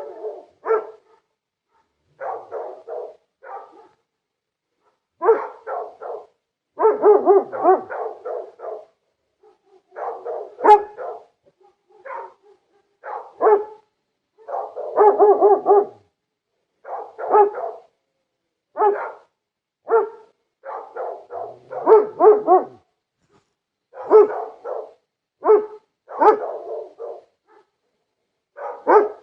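Dog barking over and over, in runs of several quick barks separated by brief silent gaps.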